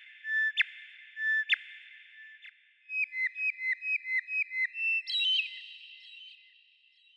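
A songbird singing clear whistled notes with a long echo: three held notes, each ending in a sharp click, then a quick run of about eight short notes falling slightly in pitch, and a higher phrase about five seconds in that fades away.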